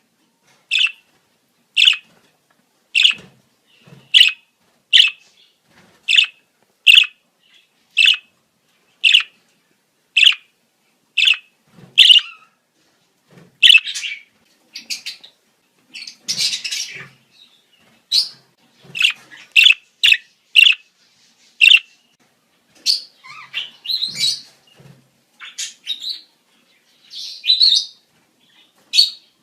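Budgerigars calling in breeding season: sharp chirps repeated about once a second, turning to busier, irregular chirping and warbling from about halfway through.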